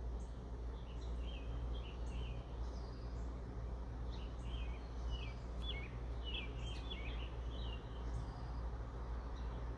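Small birds chirping in short quick notes, in two spells of twittering, over a steady low background rumble.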